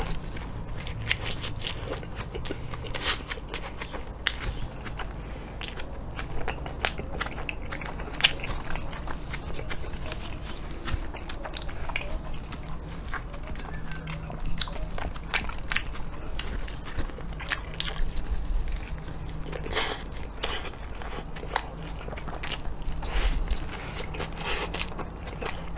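Close-up chewing and biting of a salmon burger: many wet mouth clicks and soft crunches. A few louder bites come late on.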